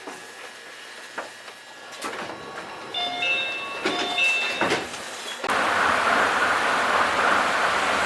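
Tokyo Monorail train heard from inside the car: a quiet start, then a few seconds of shifting electric motor whine as it picks up speed. About five and a half seconds in, a sudden jump to loud, steady rushing running noise.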